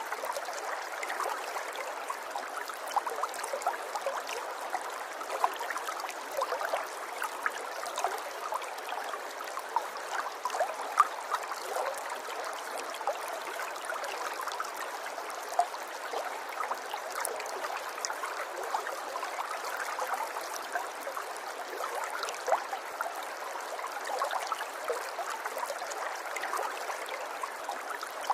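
River water running and babbling steadily over stones, with many small splashes and gurgles.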